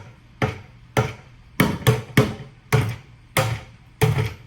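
Buckets struck with drumsticks as drums, a steady beat of about two hits a second with a few quick doubled strokes. Each hit is a hollow thump with a short ring.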